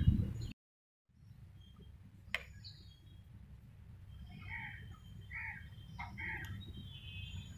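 Birds calling in the background: thin high chirps throughout, and three short calls about a second apart in the second half, over a steady low rumble. The sound drops out completely for about half a second near the start, and there is a single sharp click a little later.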